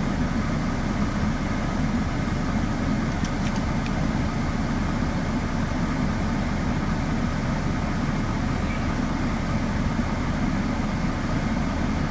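A motor vehicle's engine idling, a steady low rumble with no change.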